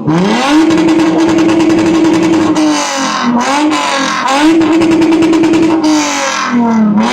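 Car engine revved hard: it climbs quickly to high revs and is held there for about two seconds, drops back, then is revved up and held again before falling away near the end.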